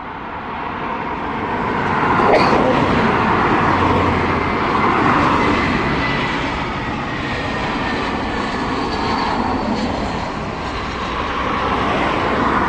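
British Airways jet airliner passing close by as it comes in to land: a dense engine roar that swells over the first couple of seconds and stays loud, with a faint steady whine above it.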